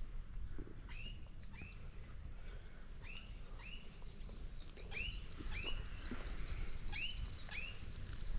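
A small animal's repeated short chirps, mostly in pairs, with a higher buzzy trill in the middle.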